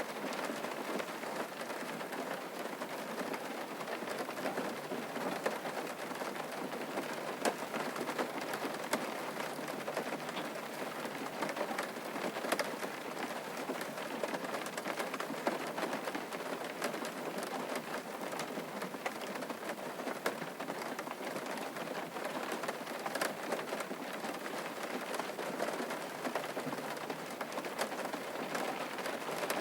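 Steady rain falling on a surface, a dense even patter with scattered sharper drop ticks.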